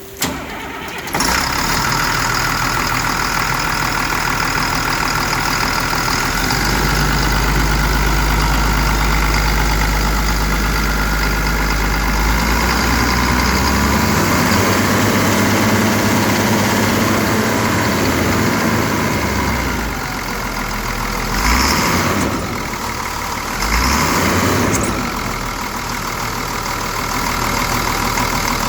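Caterpillar 322C forest machine's diesel engine starting, catching about a second in, then running steadily. It gives two brief louder surges near the end.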